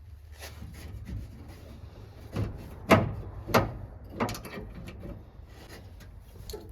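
Hands-on work at a pickup truck's door: a series of short sharp knocks and clunks, about six, the loudest about three seconds in, over a steady low hum.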